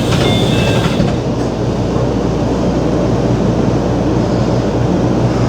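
JR Central 313 series electric train running, with a steady rumble and rushing noise. In the first second a few faint high squeaking tones sound and stop; this is typical of the door's abnormal noise, which the uploader suspects comes from deterioration.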